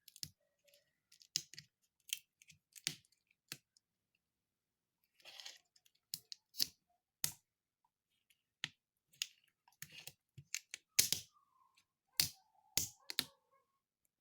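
Spoon clicking and tapping against its container, with eating mouth sounds, while someone eats a soft, hot pineapple mazamorra pudding. The short irregular clicks come one to three a second, clustering most densely near the end.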